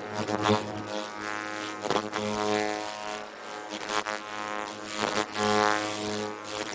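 Electric buzz of an ultrasonic skin-scrubber handle running just after start: a steady, low hum with overtones that swells and fades, with a few sharp clicks.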